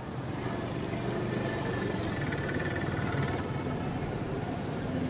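A motorcycle's engine running steadily as the bike rides along.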